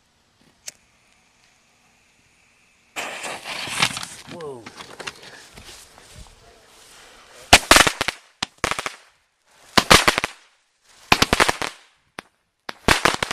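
Consumer firework cake going off: after a near-quiet start with a single click, a dense crackling breaks out about three seconds in, followed by rapid volleys of sharp cracking reports in separate bursts about a second apart.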